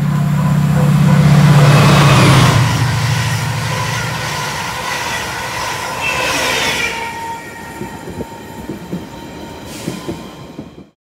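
A train passing close by: a loud low hum that peaks about two seconds in and then fades, followed by wheels clicking over rail joints and a brief squeal, before the sound cuts off suddenly near the end.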